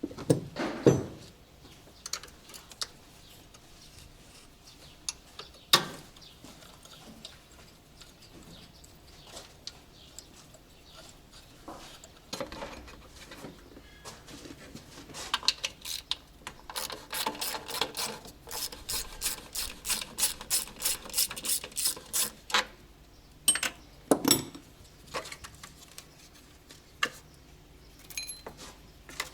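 Hand tools working on a car engine: scattered metal clicks and knocks, with a run of quick, even clicks, about five a second, for several seconds starting around two-thirds of the way in.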